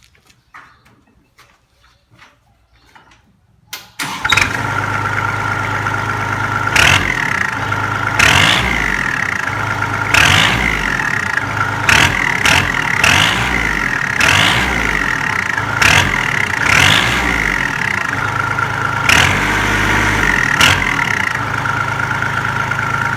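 Kubota L3608 tractor's diesel engine starting about four seconds in, then idling through a 2.5-inch stainless 'puu' aftermarket exhaust pipe of the quiet type, blipped up briefly about ten times.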